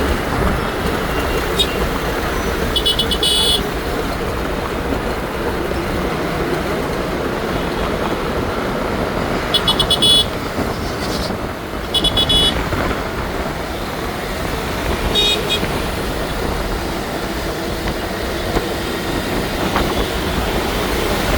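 Vehicle horns giving several short toots over steady traffic and road noise.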